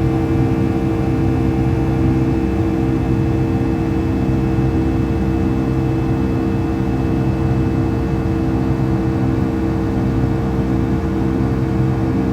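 Boeing 757-200's jet engines heard inside the cabin during the climb after takeoff: a steady drone with several constant humming tones over a low rumble.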